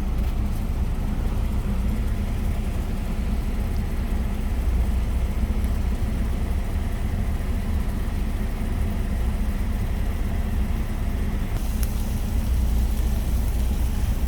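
Truck engine idling, a steady low drone heard inside the cab. A high hiss joins in about three-quarters of the way through.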